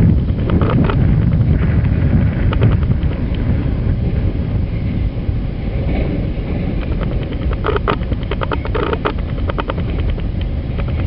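Slow freight train shoving a covered hopper car over a grade crossing: a steady low rumble from the train, with wind buffeting the microphone. Bunches of sharp metallic clicks and clanks from the cars' wheels and running gear come about a second in and again for a couple of seconds near the end.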